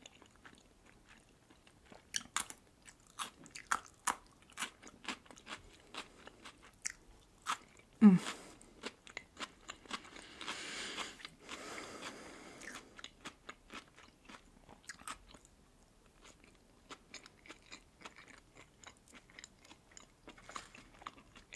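Close-up crunching and chewing of fresh cucumber slices, many crisp crunches in quick succession that thin out later on. About eight seconds in comes one short, louder hum from the eater.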